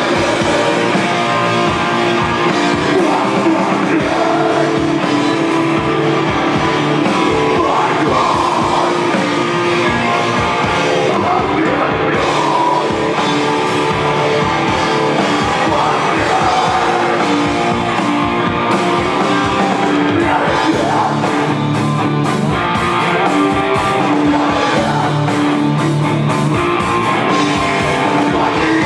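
Live rock band playing a song: guitars, bass and drums, with a voice singing over them.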